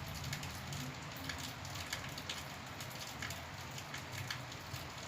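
Faint steady hiss with light scattered crackles over a low hum.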